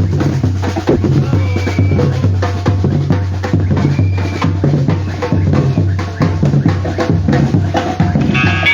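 Batucada drum ensemble playing a steady, driving rhythm: deep bass-drum beats under quicker snare and hand-percussion strokes.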